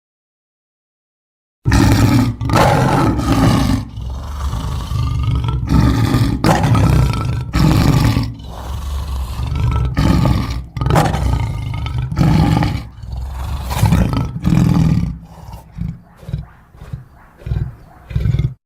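Custom Grinch sound effects: a long run of loud, rough, growl-like bursts, starting after about two seconds of silence and breaking into short separate growls near the end before cutting off abruptly.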